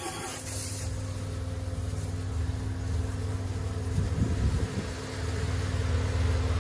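Mahindra tractor's diesel engine idling steadily, with a hiss in the first second.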